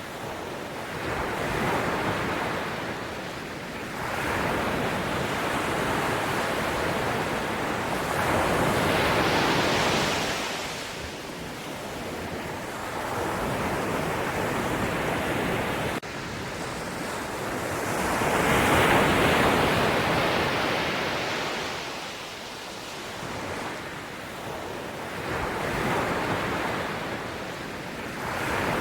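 Ocean waves washing in, one surge after another every few seconds, each swelling and then fading. The loudest comes about two-thirds of the way through.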